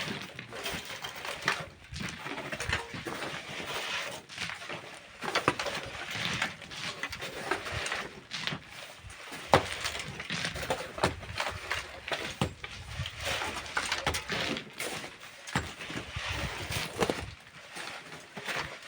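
Irregular knocks, scrapes and clinks of manual work in sand and stone, with tools striking and scraping gravel and rocks, several hits a second at uneven spacing.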